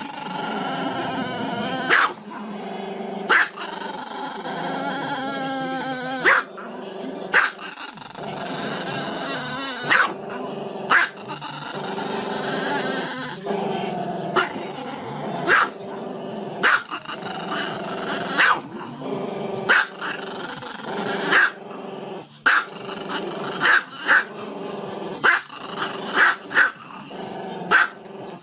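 Small black-and-tan Chihuahua giving sharp barks every second or two, with long wavering growl-like vocalizing in between.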